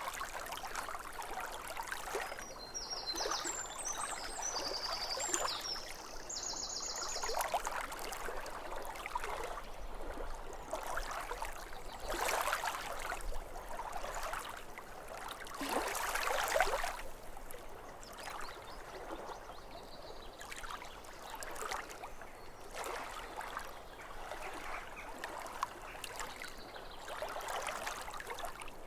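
Small waves lapping at a lake shore in irregular, splashy washes. A bird sings a few short, high phrases between about two and seven seconds in.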